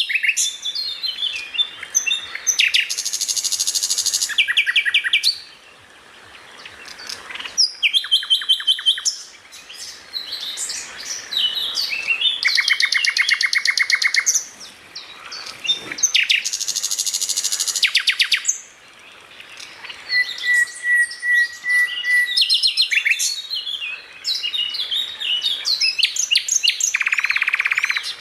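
Songbirds singing and calling without pause: fast rattling trills, quick whistled and chirping phrases, and a steady held whistle about two-thirds of the way through.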